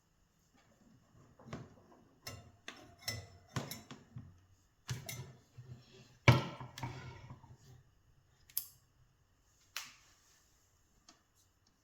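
Small hand tools being handled on a workbench: a run of irregular clicks, taps and knocks, the loudest knock about six seconds in, then a few scattered clicks.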